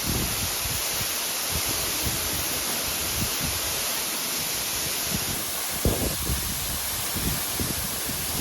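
The 33-metre Perun waterfall: a steady rush of falling water, with scattered low thumps on the microphone, the strongest about six seconds in.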